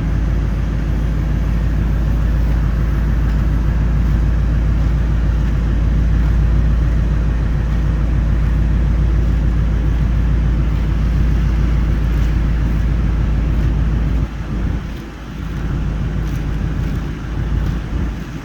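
A motor vehicle running with a steady low rumble, easing off sharply about fourteen seconds in.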